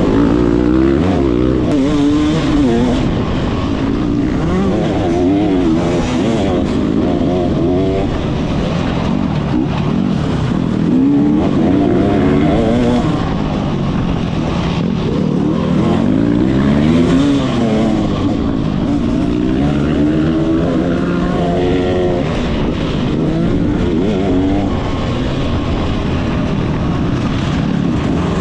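Motocross bike engine being ridden hard, its pitch climbing and dropping every second or two as the throttle opens and shuts through the track.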